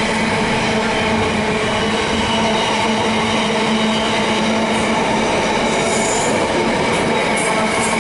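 Container-laden flat wagons of an intermodal freight train rolling past on the rails: a loud, steady rumble of wheels on track with a constant low tone running through it.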